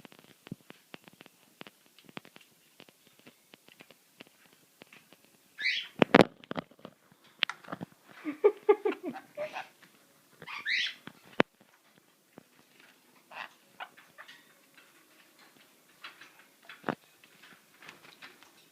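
Small parrots bathing in a water dish: light splashes and taps throughout, two loud sharp squawks about 6 and 11 seconds in, and a run of shorter calls between them.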